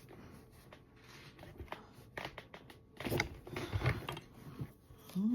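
Scattered light clicks and knocks from handling gun parts and hand tools while a muzzle brake is fitted and tightened onto an AR-15 pistol.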